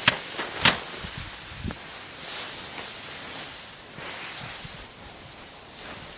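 Rice stalks rustling as they are handled in the harvest, with a couple of sharp snaps in the first second.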